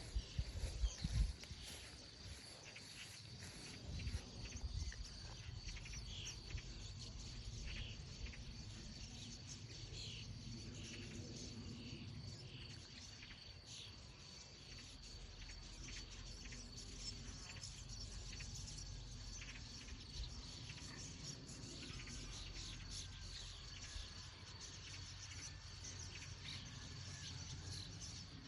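Many small birds chirping in short, scattered calls, busiest in the first half, over a steady high insect trill and a low rumble. There are a few bumps near the start.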